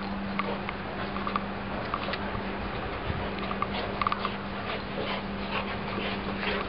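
A Standard Schnauzer and a Black Labrador play-fighting, with scuffling and scattered short dog noises over a steady low hum.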